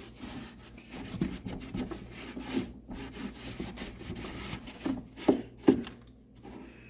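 Cloth rubbed in quick back-and-forth wiping strokes over a blower part, with two sharp knocks a little after five seconds in, then the rubbing stops.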